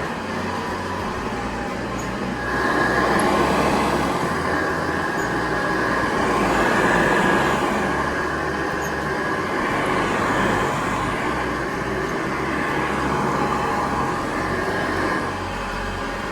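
Vintage 1970s Hoover Model 728 upright vacuum cleaner running, a deep, low rumble with a higher whine, swelling and easing every few seconds as it works the floor.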